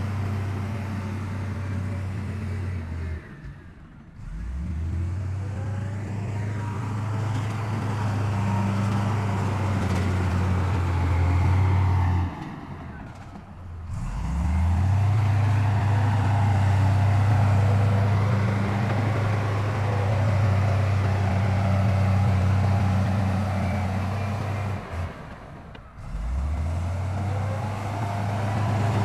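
Heavy diesel engines of earthmoving machinery running under load. The engine note drops away three times and each time climbs back up in pitch as the engine revs again.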